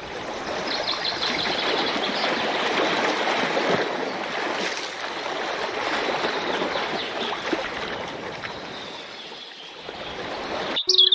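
Running water of a stream or brook, a steady rushing splash with a few faint high bird chirps about a second in. Just before the end it cuts suddenly to music with birds chirping over it.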